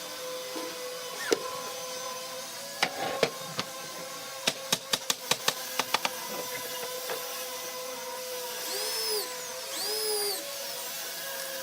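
Workshop tool sounds: a quick run of sharp taps, about four a second, then two short whines that rise and fall in pitch, like a power tool briefly spun up and released.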